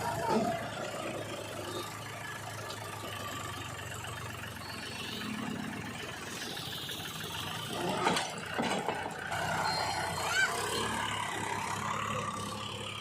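Diesel engine of heavy earth-moving machinery running steadily, with a brief burst of knocks and clatter about eight seconds in.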